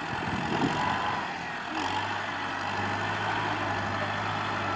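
Kubota M6040SU tractor's diesel engine running steadily, with a low hum settling in about two seconds in.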